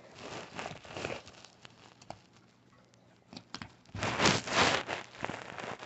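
Rustling and crinkling of packaging being handled, with a few small clicks. The rustling is louder about four seconds in.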